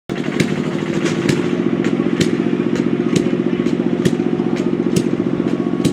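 Fordson Major diesel tractor engine idling steadily with a fast, even beat, a sharp tick cutting through every half second or so.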